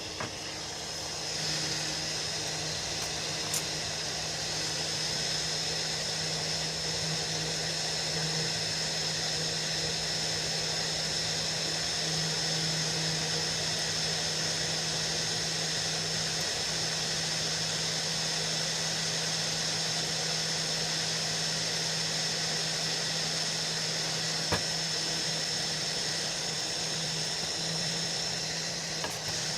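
A small electric motor running steadily with a high whine, coming up to speed about a second in.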